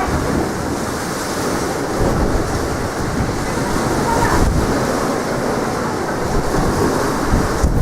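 Strong wind buffeting the microphone in gusts, over the steady wash of sea waves.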